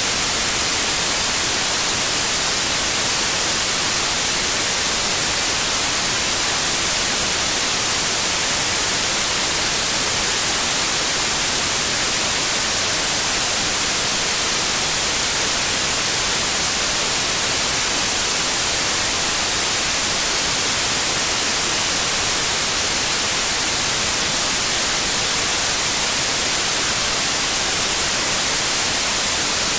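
Steady white noise, an even hiss without any change in level or texture, strongest in the treble.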